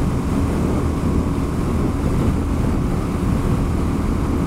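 Suzuki DR-Z400S single-cylinder four-stroke engine running smoothly at a steady cruise, with wind buffeting the helmet-mounted microphone.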